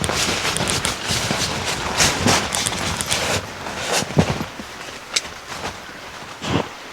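Rustling and handling noises as a tent is pitched, likely nylon fabric and poles, with many small clicks. The noise is dense for about the first three seconds, then thins to a few separate knocks.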